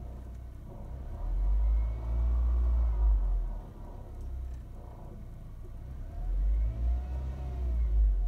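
A 1998 Toyota Corolla engine revved twice, each rev rising and falling in pitch over a deep rumble, settling back to a steadier run between.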